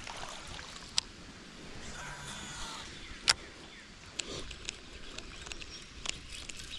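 Faint, steady rush of creek water, broken by about five sharp clicks or knocks spread through, the loudest about three seconds in.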